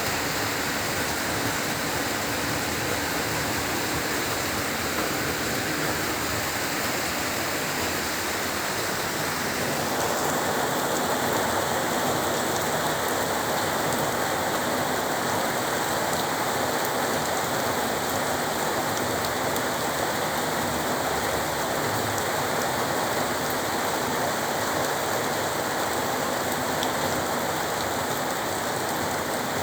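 Heavy rain falling steadily in an even downpour. About ten seconds in, its character shifts slightly and it grows a little fuller.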